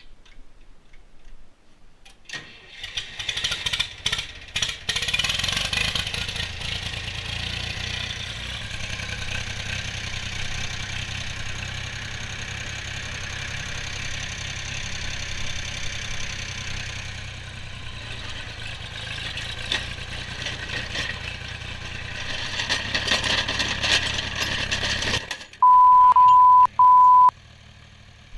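Old Ford tractor engine being cranked over in ten-below-zero cold, a rough, steady churning for about twenty seconds that stops suddenly. Then a loud steady bleep tone, broken once.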